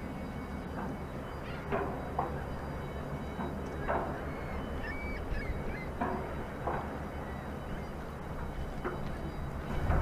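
Irregular metallic clanks, one or two seconds apart, from the deck crew knocking the clamps off a Great Lakes freighter's hatch covers to get ready for unloading. A steady low hum from the ship's engines runs underneath.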